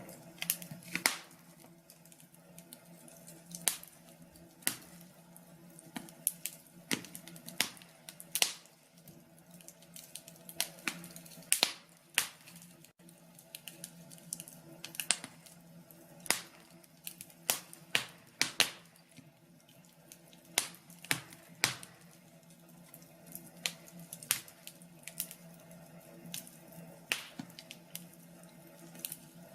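Wood fire crackling in a fireplace: irregular sharp pops and snaps, sometimes several close together, over a faint low steady hum.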